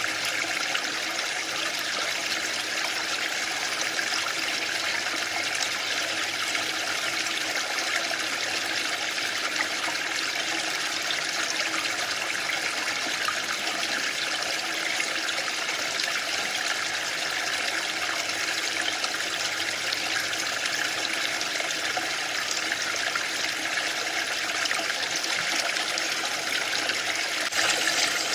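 Waterfall, a steady rush of falling water with no pauses or surges. It gets slightly louder near the end.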